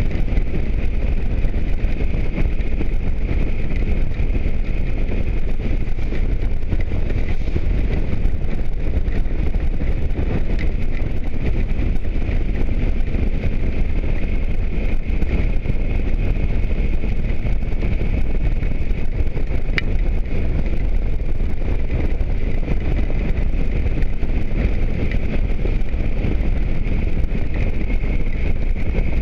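Motorcycle riding at a steady speed: the engine running under steady wind rush and road noise.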